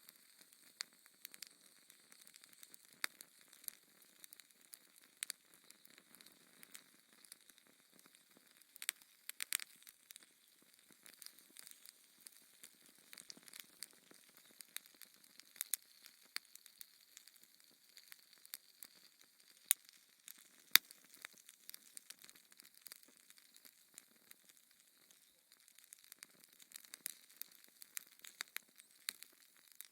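Fire in a fireplace crackling: irregular sharp pops and snaps over a faint hiss, with two louder pops close together about twenty seconds in.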